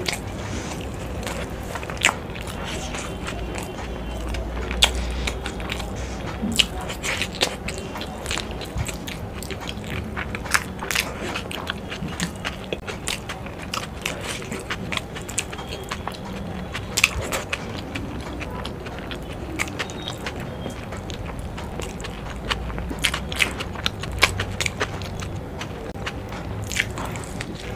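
Close-up sounds of a person chewing and biting food with a full mouth: wet mouth smacks and many sharp clicks, busiest around the middle and again about three-quarters of the way through.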